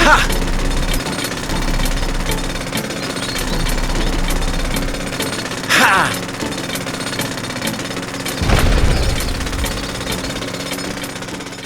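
Rapid, steady mechanical rattling, like a jackhammer or small motorised tool. A falling sweep comes about six seconds in, and a low rumble starts about eight and a half seconds in.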